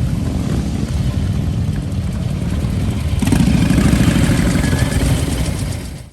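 Vehicle engine running with a deep, uneven rumble that grows louder about three seconds in, then cuts off suddenly.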